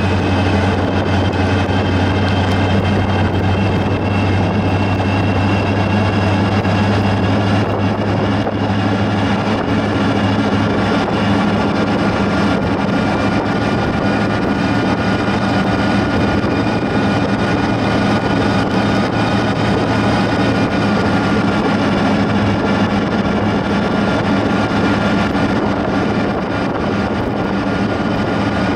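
A 1929 Essex rat rod cruising at a steady speed: a constant engine drone with road and wind noise, holding an even pitch throughout.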